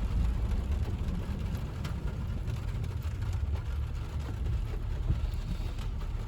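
Steady low rumble of a car driving on wet city streets, heard from inside the cabin, with a few faint clicks.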